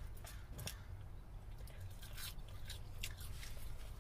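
Close-up eating sounds of a person chewing food: a few short wet clicks and smacks scattered through, over a low steady hum.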